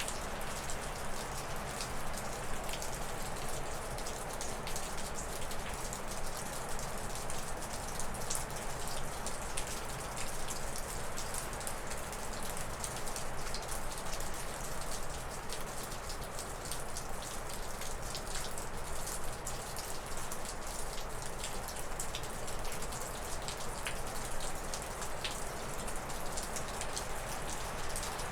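Wind blowing steadily through spruce and birch trees, with many small drips of meltwater falling off a roof.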